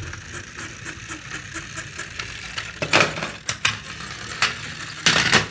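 Toy auto rickshaws rolling along a toy track: a steady rattling rumble of small plastic wheels with scattered clicks, louder near the end.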